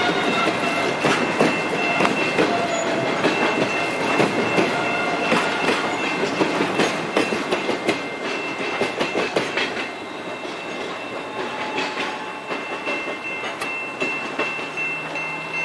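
Loaded steel-mill freight cars rolling past on jointed track: continuous wheel clatter and clicking over rail joints, with a steady high-pitched squeal held above it. The clatter eases off a little in the last few seconds as the tail of the train, with its caboose, comes by.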